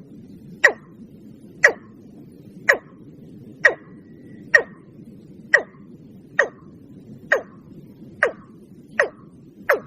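Watercock calling: a steady series of short, sharp notes, about one a second, coming slightly faster near the end, over a faint low hiss.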